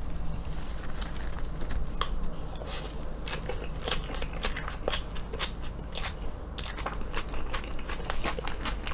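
Crisp, crunchy chewing of a mouthful of fresh salad: lettuce and purple cabbage. It makes many quick, irregular crunches, several a second.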